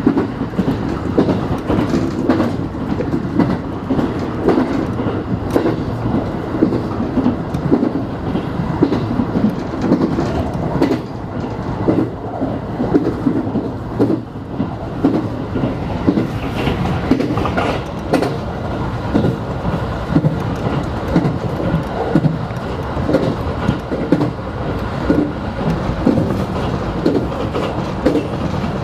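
JR West 221 series electric train running at speed, heard from on board: a steady rumble of wheels on rail with frequent clicks as the wheels pass over rail joints.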